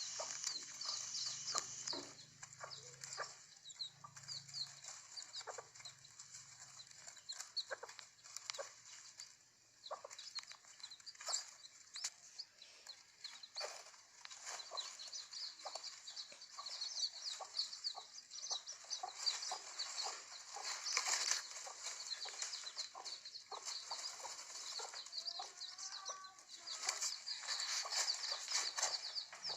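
Chickens calling: a dense, continuous chatter of many short, high peeps and clucks overlapping one another, thickening in the second half.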